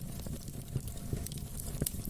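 Wood fire in a fireplace crackling and popping over a low steady rumble, with irregular sharp snaps, the loudest near the end.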